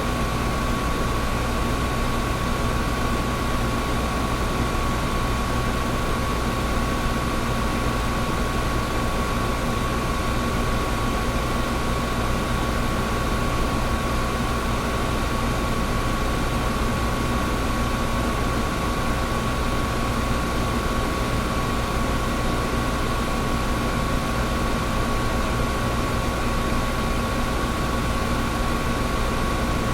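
Air conditioner running steadily: a constant rush of air over a low rumble, with a steady hum.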